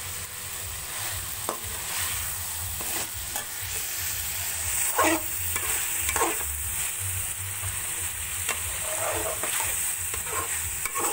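Aloo keema (minced meat, potatoes and tomatoes) sizzling in oil in an aluminium kadhai while a perforated steel spoon stirs and scrapes the pan. The loudest scrapes and knocks come about five and six seconds in. The masala is fried down until the oil has separated.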